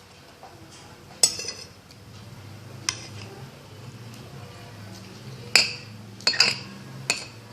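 Cutlery clinking against a plate during a meal: about six sharp, irregularly spaced clinks, several close together in the second half, over a faint low steady hum.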